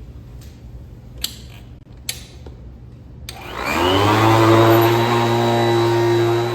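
Royal Model 2008 upright vacuum cleaner being switched on: two sharp clicks, then a little past halfway its motor spins up with a rising whine and settles into a loud, steady run.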